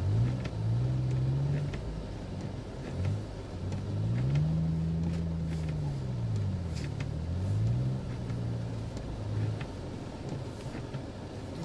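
Car engine revving up and down several times, its pitch rising and falling in swells of a second or two.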